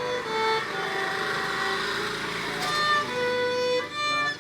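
Violin playing a melody of held notes, one after another, with a hiss of noise under it for a moment around the middle.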